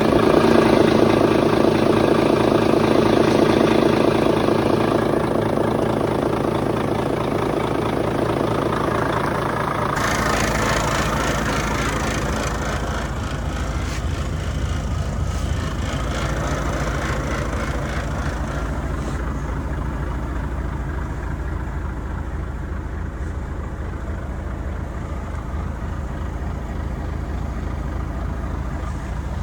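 Volvo FH 500 truck engine running, rough and loud for about the first ten seconds, then changing abruptly to a lower, steadier idle.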